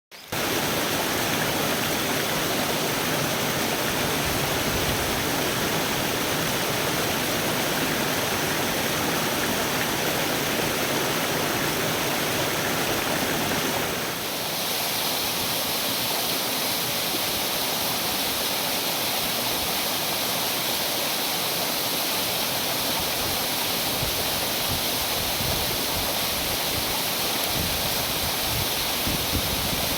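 Steady rush of flowing water, such as a waterfall or fast stream. About halfway through it changes to a brighter, hissier rush.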